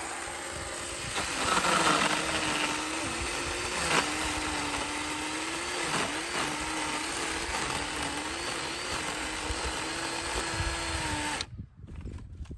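Hart battery-powered electric chainsaw running at speed and cutting cedar limbs, a steady whine that dips in pitch several times as the chain bites into the wood, then stops suddenly near the end.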